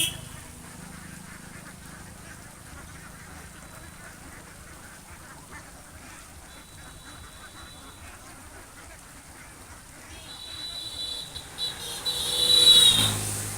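Domestic ducks quacking: a faint call about halfway through, then a run of louder quacks over the last few seconds.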